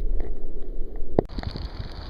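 Wind buffeting the microphone and water noise around a sea kayak on choppy water, with one sharp knock a little past halfway, after which it turns quieter.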